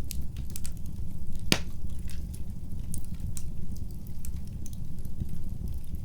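Wood fire in a fireplace crackling and popping: frequent sharp snaps over a steady low rumble of the flames, with one louder pop about a second and a half in.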